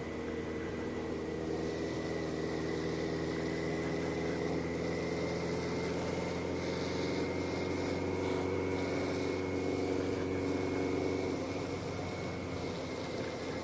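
Motorcycle engine idling steadily while stopped, with on-and-off hiss over it.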